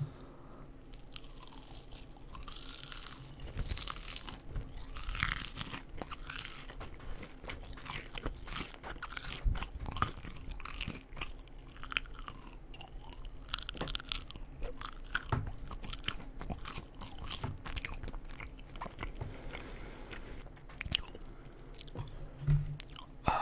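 Close-miked eating: a person biting and chewing crunchy food, with irregular crisp crunches and mouth sounds.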